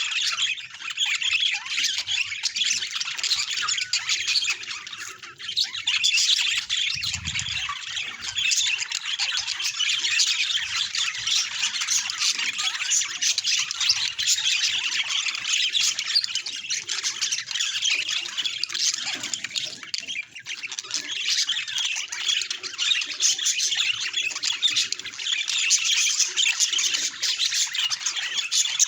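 A group of budgerigars chattering and squawking without a pause: a dense tangle of warbling, chirps and sharp calls.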